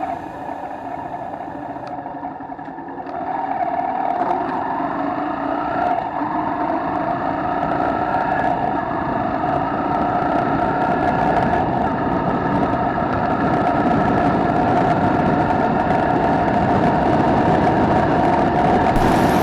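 Mercedes-AMG GLE Coupe engine accelerating, its pitch rising in several sweeps as it pulls through the gears, getting louder from about three seconds in.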